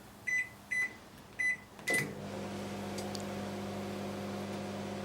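LG IntelliWave 1600 W microwave oven: four short keypad beeps, then about two seconds in the oven starts running with a steady hum of its fan and mains transformer. The magnetron is not working, so the oven runs without heating.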